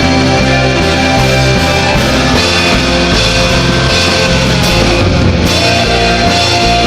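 Instrumental indie rock: distorted electric guitars and bass playing loud, steady chords with drums, no singing.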